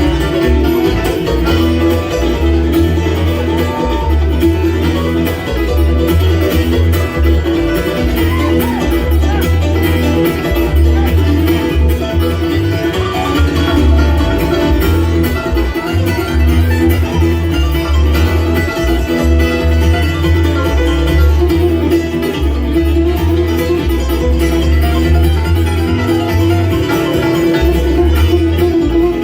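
Live bluegrass band playing an instrumental stretch, banjo and guitar picking over a pulsing bass line.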